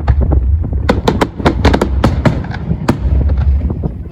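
Fireworks display: a rapid, irregular run of sharp bangs and crackles from aerial shells bursting, over a constant deep rumble.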